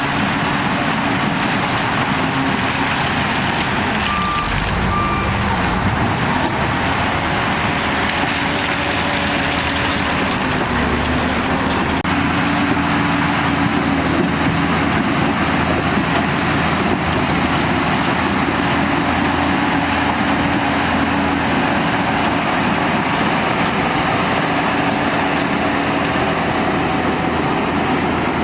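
Heavy diesel construction machinery running steadily, its engine note dipping and rising a few times as it works. Two short beeps sound about four seconds in.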